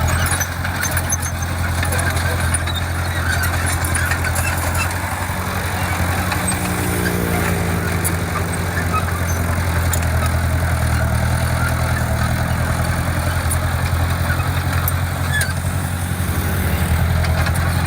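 Diesel engine of heavy earthmoving equipment running steadily with a low, even hum, its pitch wavering a little midway.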